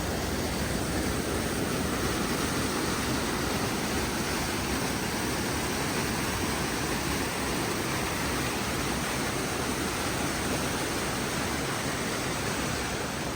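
Steady rush of creek water running high after storms, an even hiss with no breaks.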